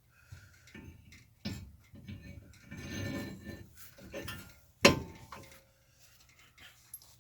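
Metal tools and parts clinking and knocking during brake work, with a scraping stretch around three seconds in and one sharp metal clank about five seconds in.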